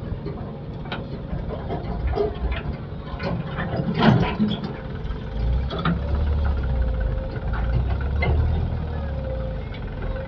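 Heavy machine's diesel engine running, its low rumble growing heavier a little past halfway, with scattered metal clicks and knocks and one loud clank about four seconds in.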